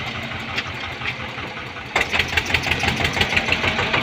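Eicher 242 tractor's diesel engine running with a steady knocking beat, which grows louder and sharper about two seconds in.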